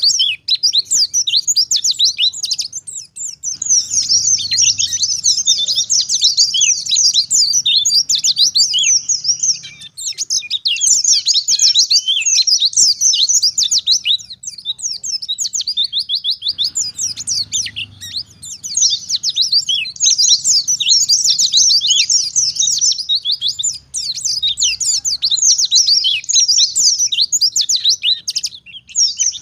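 White-eye (pleci) singing a long, rapid twittering song of high, quickly sliding notes, broken by a few brief pauses.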